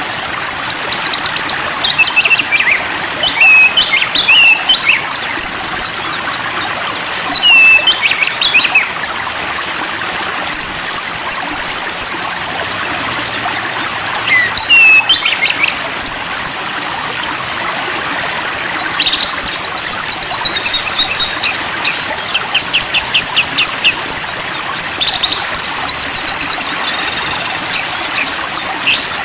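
Songbird calls, short whistles and slurred notes, over the steady rush of running water; about two-thirds of the way through the birds break into dense, rapid chattering trills.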